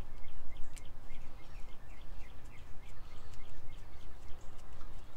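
Small birds chirping: a quick run of short high notes, several a second, over a steady low rumble of outdoor background noise.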